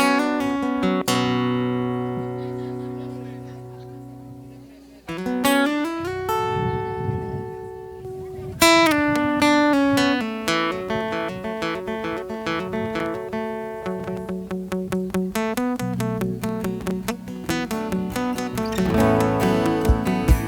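Instrumental song intro led by acoustic guitar. Held chords ring out and fade, then quick picked guitar notes follow, with a beat coming in at the very end.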